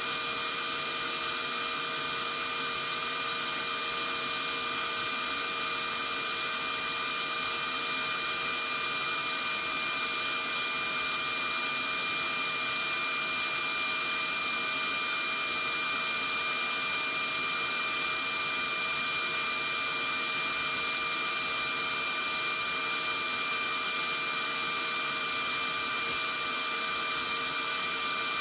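Vacuum cleaner running steadily: an even rush of air with a constant motor whine on top, holding the same pitch and level throughout.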